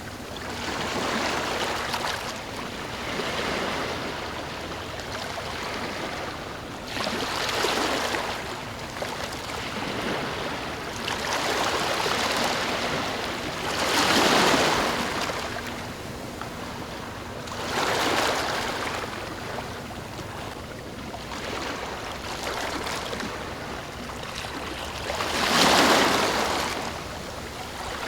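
Ocean waves breaking and washing in, swelling and fading every few seconds, with the biggest surges about halfway through and near the end.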